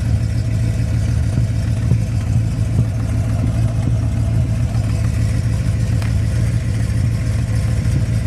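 1967 Cadillac Eldorado's 429 cubic-inch (7-litre) V8 idling steadily through its true dual exhaust, heard close under the car. The low exhaust note stays even, with no revving.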